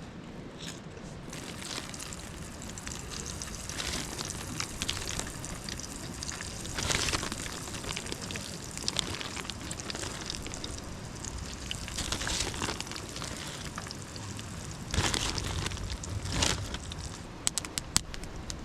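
Potatoes deep-frying in hot oil: a steady sizzle with crackling and spitting, swelling louder a few times.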